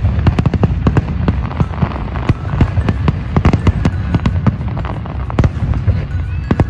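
Barrage of aerial fireworks bursting: rapid, overlapping bangs and crackles, several a second, over a continuous low rumble.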